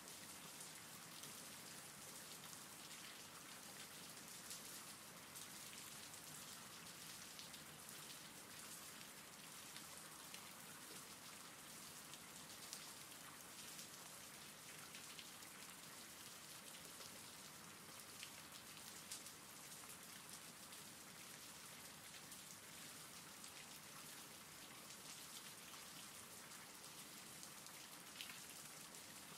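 Faint, steady rain falling, with a single louder drop standing out now and then.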